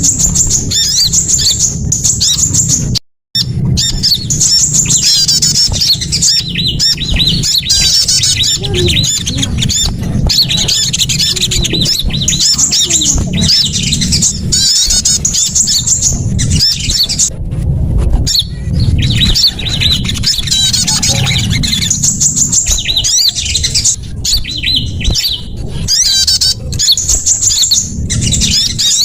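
Bird-lure recording of many small songbirds, sunbirds among them, chattering and chirping densely at high pitch over a steady low rumble. The sound cuts out completely for a moment about three seconds in.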